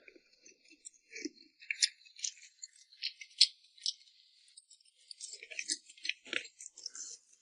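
Close-miked eating sounds: irregular crisp clicks and crackles, with a few louder snaps.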